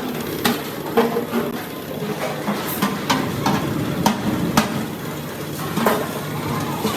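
Irregular metal knocks and clanks of hand metalworking, about ten sharp strikes spaced unevenly over a steady workshop background noise.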